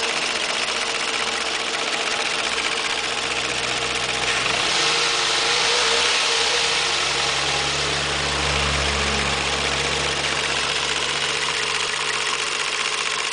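Warmed-up 1.3-litre 2NZ-FE VVT-i four-cylinder petrol engine of a 2001 Toyota Yaris idling steadily, heard close up in the engine bay, a little louder for a couple of seconds near the middle. Its running noise is one that a Toyota mechanic judged normal, not a fault.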